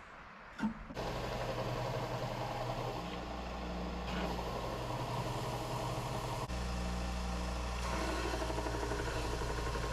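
A motor switched on with a click, running steadily with a low hum.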